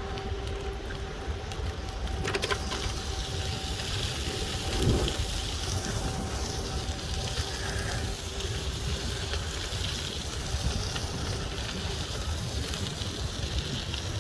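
Steady outdoor rumble and hiss with a faint steady hum through about the first half, and a brief thump about five seconds in.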